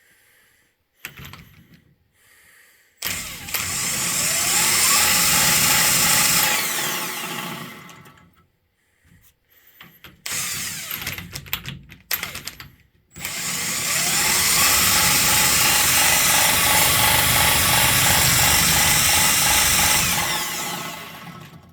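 A car alternator is spun up twice, each time with a rising whine, then runs loud for several seconds and winds down, with short clunks in between. A good alternator is being compared with one whose rear bearing is failing.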